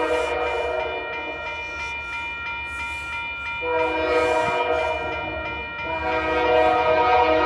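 Diesel locomotive's multi-chime air horn sounding a chord in long held blasts. It is softer for a couple of seconds, comes back in full about halfway through, dips briefly and sounds loud again near the end.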